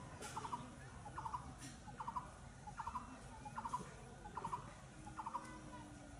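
A bird calling over and over, each call a short rattle of three or four quick notes, repeating about every three-quarters of a second, over the faint low rumble of a passenger train passing.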